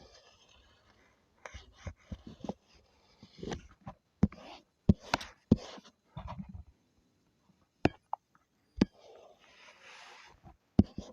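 Drawing sounds: a drawing tool tapping sharply on the surface a dozen or so times at irregular intervals, between soft scratchy strokes.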